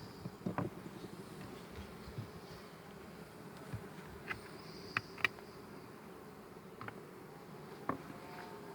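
Honeybees humming steadily, with about six short sharp clicks or taps scattered through, the loudest about five seconds in.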